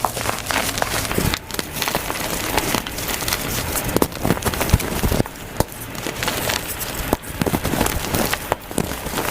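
Reformed gym chalk cakes being crushed and crumbled: a dense run of crunchy crackles and crumbling, sped up to double speed.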